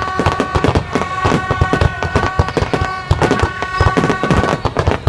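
Fireworks going off in rapid succession: a dense barrage of sharp bangs and crackles, with a steady held tone running through it.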